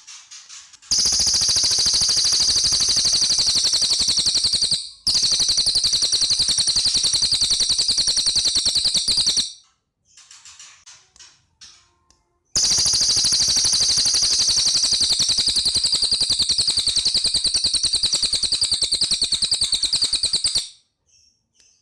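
A cililin songbird singing two long, very rapid rattling trills, high-pitched and fast like a machine gun, each about eight seconds long with a short pause between them; faint short chirps fill the gap.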